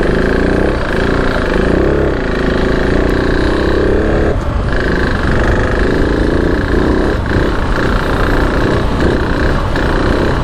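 KTM 690 Enduro R's big single-cylinder engine running on and off the throttle, its pitch rising and falling, with short dips in the sound about four seconds in and a few more near the end.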